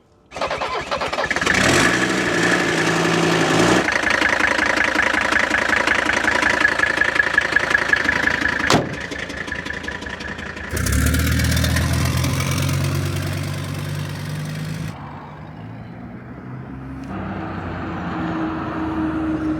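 Mercedes OM617 five-cylinder turbodiesel engine running, its revs rising and falling several times, with a sharp click about nine seconds in and another about seventeen seconds in.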